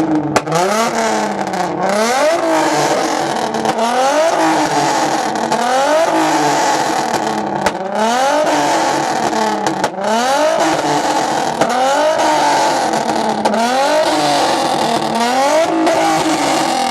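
A car engine being revved hard over and over at a standstill, its pitch sweeping up and dropping back about once every two seconds. Loud enough to hurt the ears.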